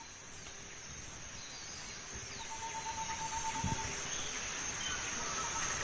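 Tropical rainforest ambience: insects droning steadily at a high pitch, growing slowly louder. A single held whistled note, like a bird call, sounds for about a second midway.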